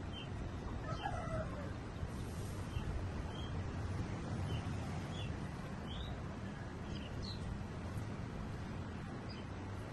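White-rumped shamas giving short, high chirps, about a dozen scattered through, over a steady low hum; about a second in comes a lower, falling call.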